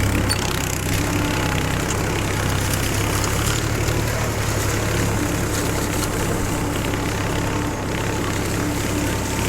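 Powertrac 434 tractor's diesel engine running steadily under heavy load while pulling a 14-disc harrow through wet soil, with a strong, even low hum.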